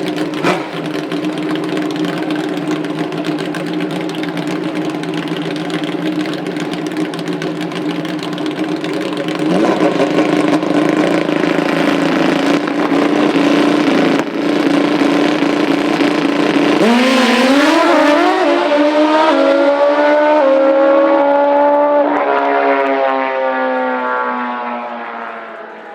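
Pro Nitrous drag-racing motorcycle engines running steadily at the line, then launching: about two-thirds of the way through the pitch climbs steeply, drops at a gear change a few seconds later and climbs again, and the sound fades as the bikes run away down the track.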